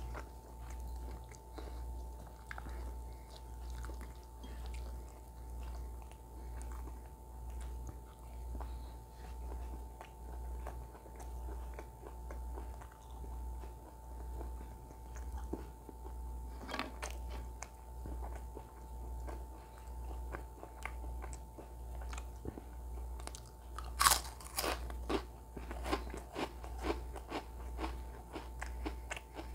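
Close-miked chewing of food with wet mouth clicks and crunches, the sharpest and loudest crunches coming in a cluster in the last few seconds. A low hum that rises and falls about every two seconds runs underneath.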